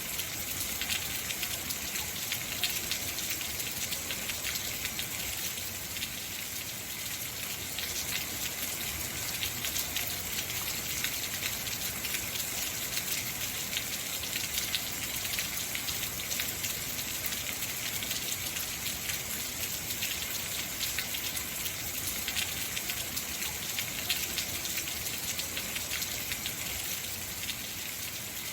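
Heavy rain falling steadily: a dense hiss of drops striking surfaces, with many fine individual drop ticks.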